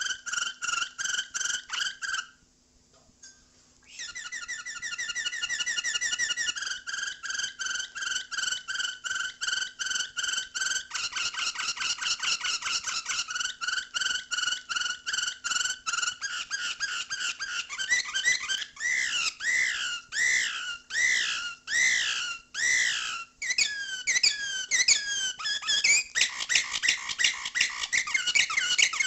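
Domestic canary singing: long runs of rapid, evenly repeated trilled notes, broken by a short pause about two seconds in. Past the middle the song changes to a run of slower downward-sliding whistled notes about once a second, then the fast trills resume.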